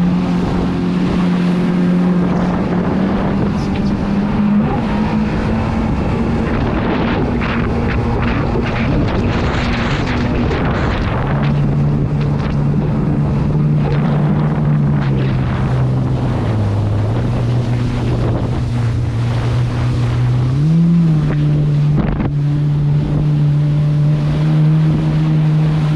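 Jet ski engine running under way, its pitch stepping down about eleven seconds in, dipping lower for a couple of seconds, then jumping briefly as the throttle is blipped. Wind buffets the microphone and water rushes past.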